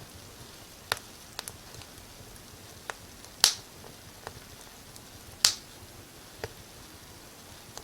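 Wood fire crackling: sharp, irregular pops, roughly one a second, over a faint steady hiss. The two loudest pops come about 3.5 and 5.5 seconds in.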